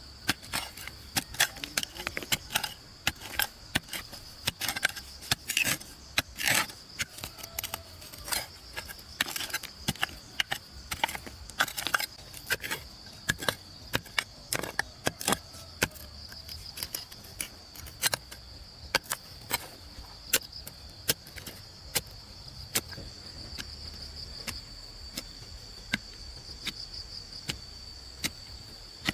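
A steady high insect drone with many sharp, irregular clicks and knocks over it, several a second at first and fewer after about twenty seconds.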